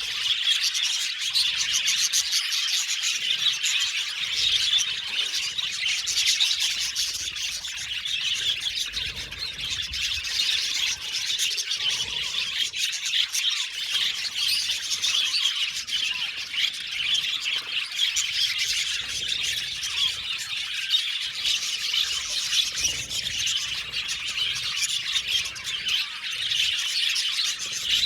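A flock of budgerigars chirping and chattering all together in a continuous, busy mix of rapid high chirps, with occasional squawks.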